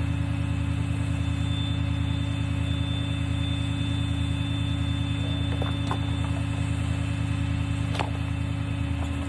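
Steady low machine hum with a faint click about eight seconds in.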